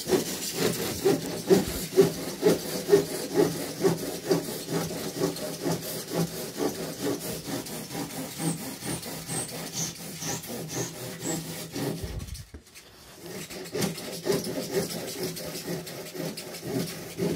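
Hand saw cutting through a thin pipe in steady back-and-forth strokes, about two a second, pausing briefly about twelve seconds in before sawing on.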